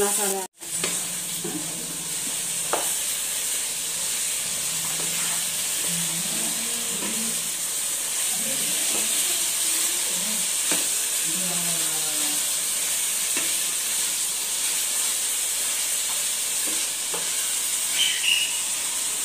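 Oil sizzling in a pan: a steady frying hiss, cut off briefly about half a second in, with a few faint light taps.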